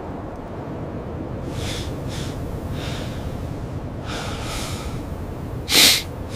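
A series of short breathy huffs or gasps, the last one near the end much louder and sharper, over a steady low rumbling noise.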